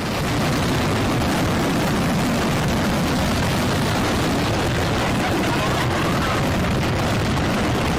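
A fireworks display's shells all bursting at once: a dense, unbroken run of booms and crackles at steady loudness. This is a show malfunction that set off the whole display together.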